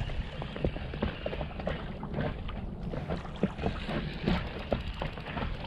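Water slapping and lapping against the hull of a small fishing boat, with many short, irregular light knocks over a low steady rumble of wind.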